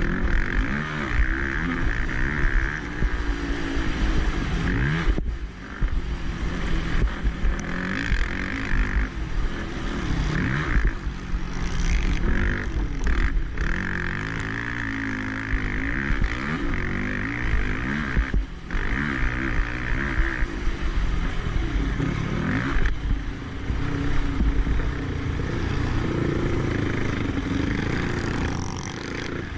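Motocross racing quad engine revving hard and easing off again and again, its pitch rising and falling with each throttle opening and shift, over a heavy low rumble.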